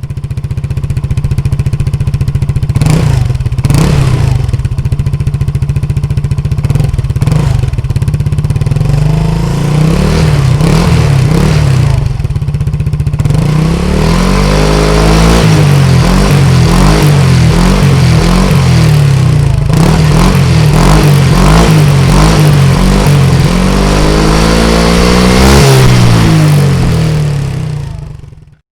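Yamaha Tricity 125's single-cylinder four-stroke engine running through a GPR aftermarket exhaust. It idles with a few short throttle blips, then from about halfway it is revved up and down over and over.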